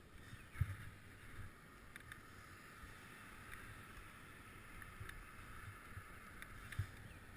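Bicycle riding along: a steady, quiet rolling and wind hiss, with a couple of short knocks or rattles from the bike, one about half a second in and one near the end.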